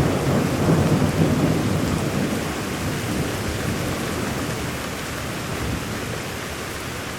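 Steady rain falling, with a rumble of thunder at the start that dies away over the first few seconds.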